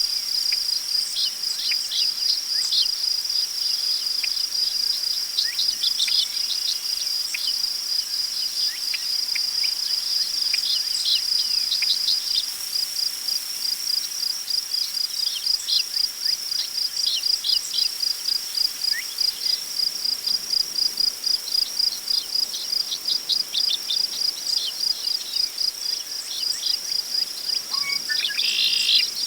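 Crickets chirping in a steady high-pitched chorus that settles into an even pulsing about halfway, with birds giving short chirps now and then and a few lower bird calls near the end.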